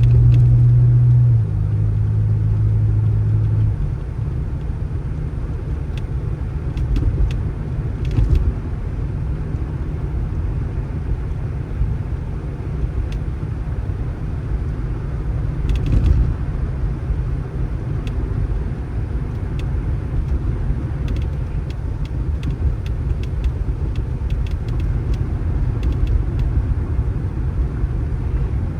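A motor vehicle running, a steady low rumble, with a low hum that steps down about a second in and stops near four seconds, and a few faint clicks.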